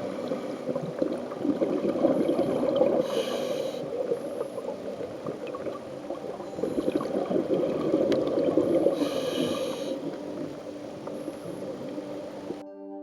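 Underwater sound of a scuba diver breathing through a regulator: a continuous bubbly gurgle of air, with two louder breaths about three and nine seconds in.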